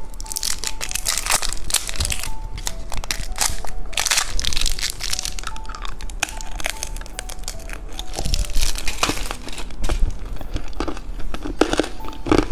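Plastic packaging of a novelty lighter-shaped candy crinkling and crackling in irregular bursts as it is handled and opened. A light background melody plays underneath.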